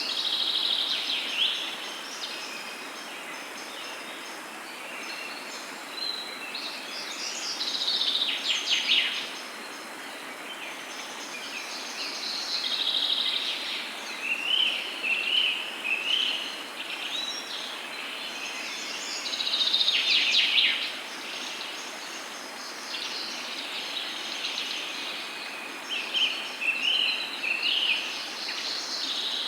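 Songbirds singing in repeated trilling and chirping phrases over a steady background hiss, with the loudest bursts of song coming every several seconds.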